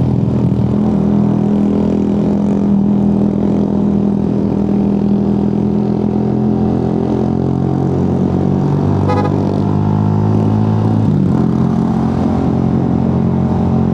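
Motorcycle engine running steadily under way, its note shifting slightly about eleven seconds in.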